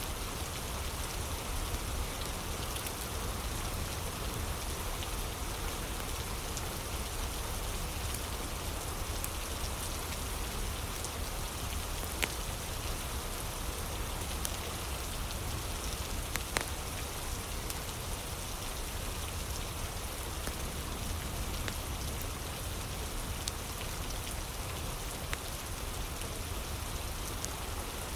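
Steady rain falling on a surface, mixed with the scattered sharp pops of a crackling fire, two of them louder about twelve and sixteen seconds in.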